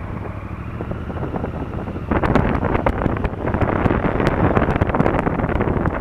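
Honda Africa Twin CRF1000L parallel-twin engine running on the move, with wind buffeting the camera microphone; the wind rush and crackle get louder about two seconds in.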